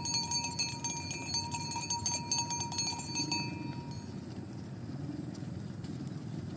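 Cowbells on walking cattle clanking irregularly, stopping a little over halfway through, over a low steady rumble.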